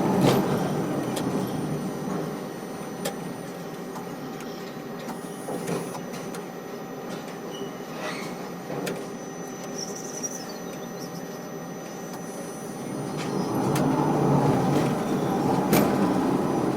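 Dockside cargo crane machinery running, a steady mechanical noise with scattered clicks and knocks. It is louder at first, eases after about two seconds, and swells again about thirteen seconds in before easing near the end.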